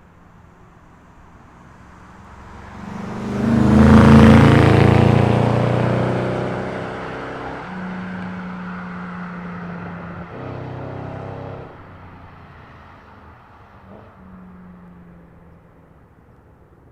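2010 Ford Crown Victoria Police Interceptor's V8 through a custom quad-tip exhaust, driving past. It is loudest about four seconds in, then fades as the car pulls away, its engine note changing in steps a few times.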